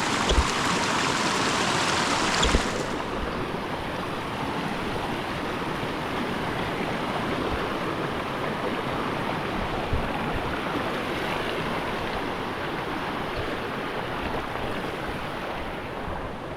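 River water rushing over rocks: a steady wash, louder and brighter for the first few seconds, then softer and duller, with a few dull knocks.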